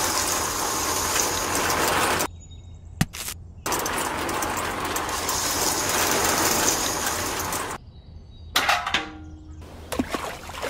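DIY toy cement mixer, a tin-can drum turned by a small geared motor, running with a steady rattling hiss as sand and cement powder are poured into it, in two spells of a few seconds each with a short break between. A few light clicks near the end.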